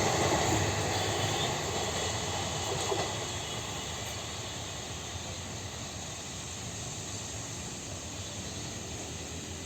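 Passenger express train drawing away after passing, its rail noise dying down over the first five seconds into a steady hiss.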